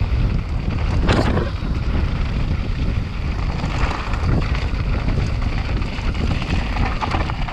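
Wind buffeting the microphone of a mountain bike on a fast downhill descent, mixed with the bike rattling and tyres running over rough, loose ground. A brief louder scrape about a second in.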